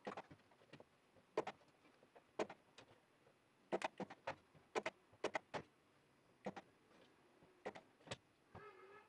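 About a dozen irregular sharp taps and clicks, with a short pitched squeak near the end.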